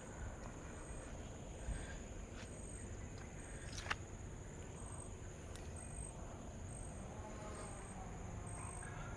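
Forest insects calling: a steady high-pitched buzz with a separate higher chirp pulsing a little more than once a second. A single sharp click about four seconds in.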